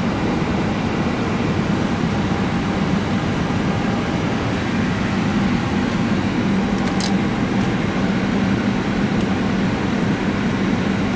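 Steady rushing hum of an airliner's running auxiliary power unit and air-conditioning, heard from inside the flight deck while the parked aircraft is on APU power. A short click about seven seconds in.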